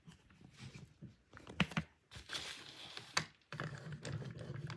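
Small plastic toy-train parts being handled, giving scattered sharp clicks and light scraping as the train's gearbox is taken apart to get at a cog.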